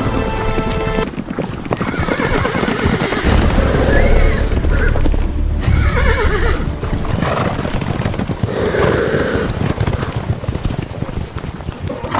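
Horses galloping, with a dense clatter of hoofbeats and several whinnies rising and falling, about three times. The horse sounds are generated or library sound effects.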